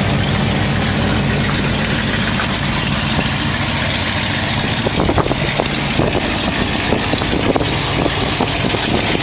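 V8 engine of a restored 1951 Ford F-1 pickup idling steadily. From about halfway on the low engine note thins, and a string of sharp clicks or knocks is heard over it.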